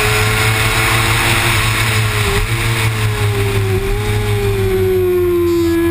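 Kawasaki Ninja ZX-6R inline-four engine running hard with the throttle held steady, its note drifting slightly lower after about four seconds. Wind rushes over the bike-mounted camera, strongest in the first couple of seconds.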